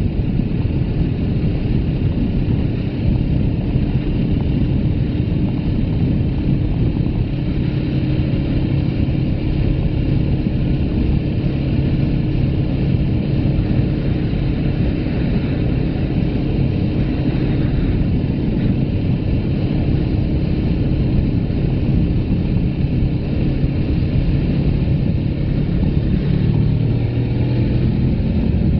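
Suzuki GS500F's air-cooled parallel-twin engine running at a steady cruise under heavy wind rumble on the microphone. Near the end the engine note drops, then climbs again.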